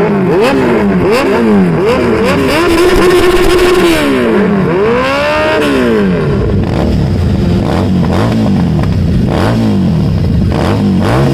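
Kawasaki Z900 motorcycle engine revved in a string of quick throttle blips, held briefly at steady revs, then taken up and back down in one longer rev about five seconds in. After that it drops to lower revs with smaller blips.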